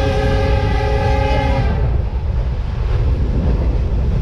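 Train horn sounding one steady blast of about a second and a half, over a steady low rumble that continues after the horn stops.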